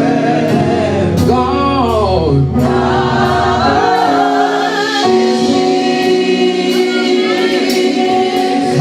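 A gospel choir sings a slow worship song with accompaniment. About a second in, the voices bend up and down in a run, then hold long notes.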